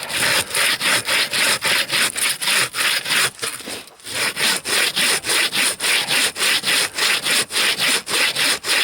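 Bow saw with a 70 cm blade cutting through a log in quick, even back-and-forth strokes, with a short pause about four seconds in. The raker teeth are clearing out the shavings, so the blade is cutting freely.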